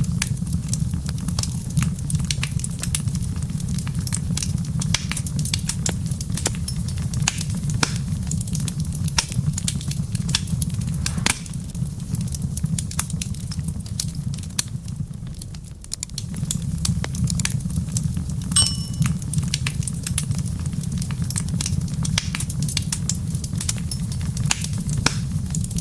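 Wood fire crackling in a fireplace: dense, irregular pops and snaps over a steady low rumble that eases off briefly about two-thirds of the way through, then returns. A short high ringing tone sounds once near the end.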